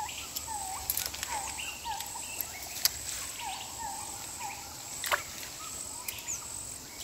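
Outdoor marsh ambience: insects trill steadily at a high pitch, while a bird gives short, repeated chirping calls in runs of several. A few sharp clicks stand out about one, three and five seconds in.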